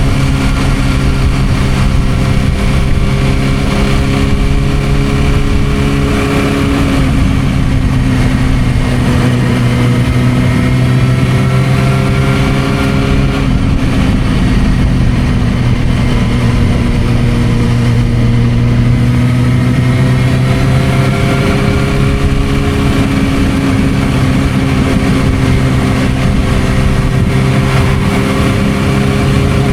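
Suzuki GSR600's inline-four engine through an aftermarket Dominator exhaust, cruising at steady revs, its note rising and falling gently a few times as the throttle changes.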